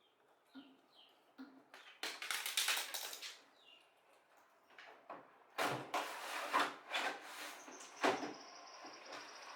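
Irregular knocks, clatters and short scraping sounds of parts being handled during a repair. A faint steady high whine starts near the end.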